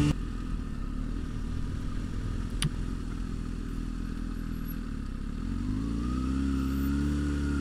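Kawasaki Ninja motorcycle engine running at low revs, then rising in pitch about five and a half seconds in as the bike accelerates, with one short click partway through.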